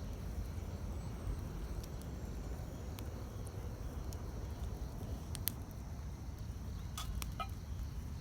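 Wood campfire burning: scattered sharp crackles and pops over a low steady rumble, with a small cluster of crackles near the end.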